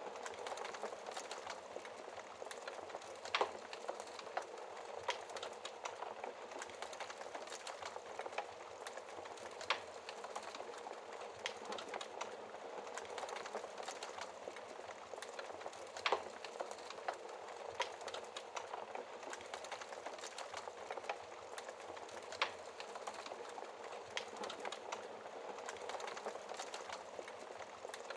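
Wood fire burning: a steady hiss with constant small crackles and a few louder sharp pops, about one every six seconds.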